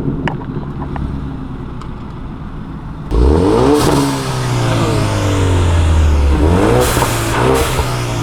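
Car engine running at a low rumble, then accelerating hard about three seconds in, its pitch climbing; the pitch dips and climbs again a few seconds later.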